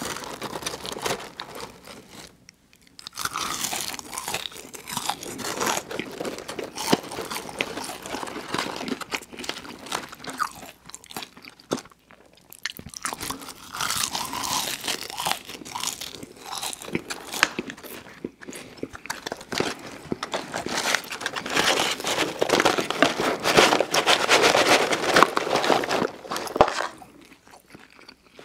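Close-miked eating: McDonald's French fries being bitten and chewed, a dense run of crunching and mouth noise with two short pauses, about three and twelve seconds in.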